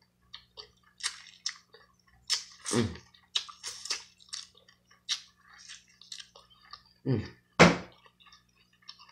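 Close-up wet chewing, lip-smacking and sucking of a person eating sauce-covered corn on the cob, heard as many short moist clicks and smacks. There are a couple of brief voiced hums, about three seconds in and again near the end. A faint steady low hum runs underneath.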